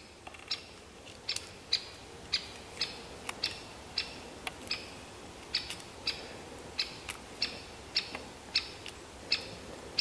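A small bird calling: one short, sharp, high note repeated steadily, roughly every half second to second.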